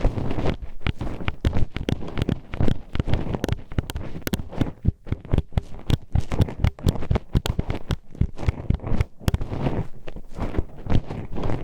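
Metal hairpin poked into and scraped inside a binaural microphone's ear: a dense, irregular run of sharp clicks and knocks over a low rumble.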